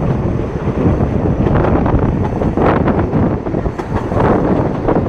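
Wind buffeting the microphone in loud, irregular gusts over the steady running rumble of a moving steam train.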